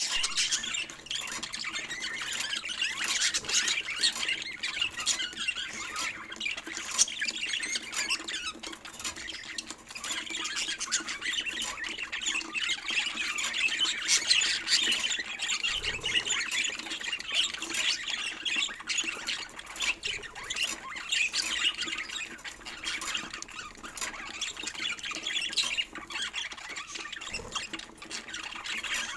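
Pet budgerigars chattering, with continuous rapid chirps and squawks.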